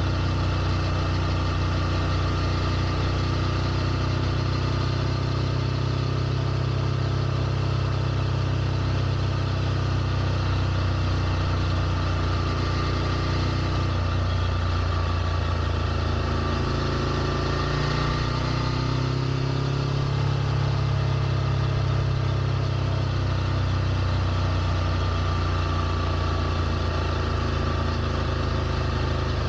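Ducati Scrambler Nightshift's 803 cc air-cooled L-twin idling steadily; about halfway through its pitch wavers and rises slightly, then settles back.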